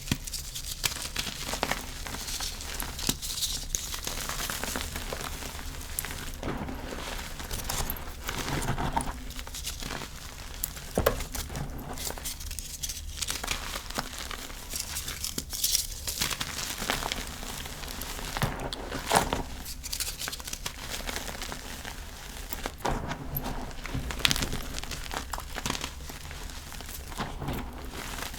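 Blocks of gym chalk being crushed and crumbled, a dense crisp crunching and crackling with a few sharper, louder snaps now and then.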